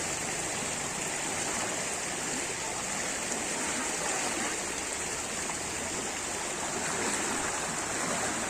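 Floodwater rushing with a steady, even noise.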